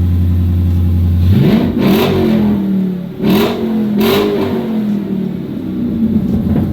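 A 2019 Dodge Scat Pack's 6.4-litre 392 Hemi V8, fitted with a modified Hellcat K&N intake and a larger throttle body, idling steadily after a cold start. About a second and a half in it is revved three times in quick succession, each rev rising and falling back, before it settles toward idle again.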